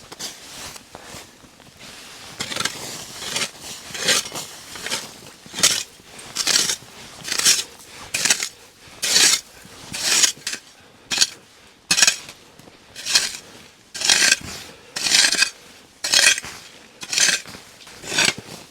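Shovels scooping snow: a crunching scrape about once a second, repeated many times.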